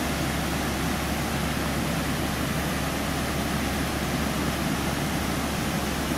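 Steady rushing of water pouring over a small waterfall, an even noise with no break or change.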